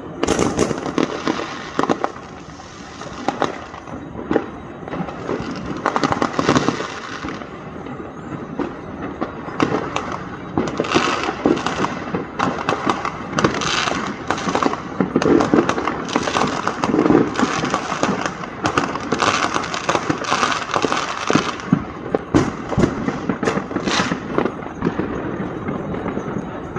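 Fireworks going off in quick succession: a dense, irregular run of sharp bangs and crackle, several a second.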